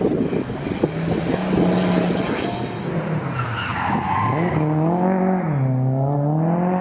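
Historic rally car sliding with its tyres skidding, then its engine revving, the pitch rising, falling and rising again from about four seconds in.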